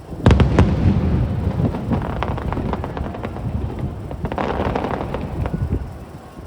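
Aerial fireworks shells bursting: a loud boom about a quarter second in, then a rapid run of sharp cracks over deep rumbling booms. A second cluster of crackling bursts follows about four and a half seconds in, dying away near the end.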